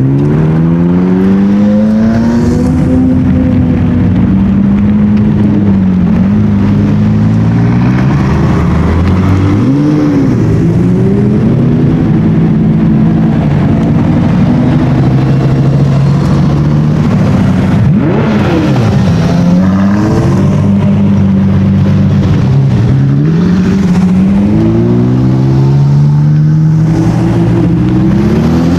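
High-performance car engines revving and accelerating, loud throughout, the pitch climbing and falling back several times with stretches held steady in between.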